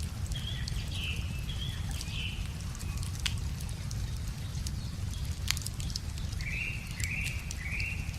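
Wood fire crackling with scattered sharp pops, over a low steady rush of flowing river water. A bird calls in short repeated notes, about four near the start and three in quick succession near the end.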